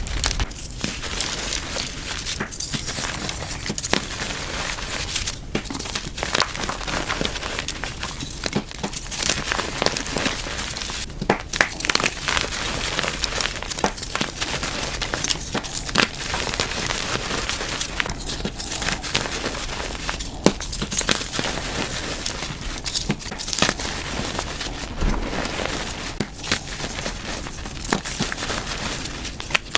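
Blocks of reformed gym chalk being crushed, with dense crunching and crackling and many sharp snaps as the pieces break and crumble, in short bouts with brief pauses between.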